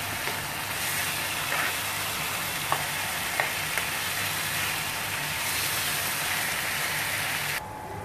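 Minced chicken with onions and green chillies sizzling in a frying pan while a spoon stirs it, with a few light scrapes and taps of the spoon against the pan. The sizzling cuts off suddenly near the end.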